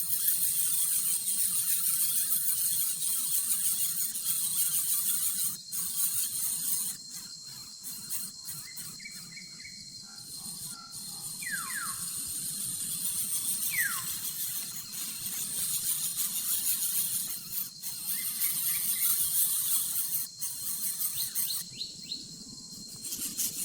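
A steady high-pitched hiss runs throughout, with a few short chirps from birds falling in pitch around the middle and a few more near the end.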